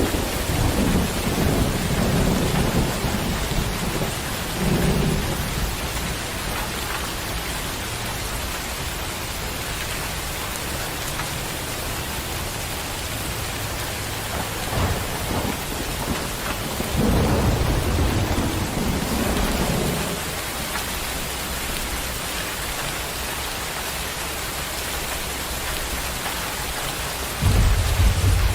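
Steady heavy rain with rolling thunder: low rumbles swell at the start and again about two thirds of the way in, and a sharp thunderclap breaks out near the end.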